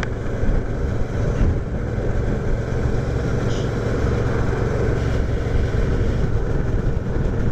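V-twin motorcycle engine running steadily at cruising speed on the open road, with no change in pace.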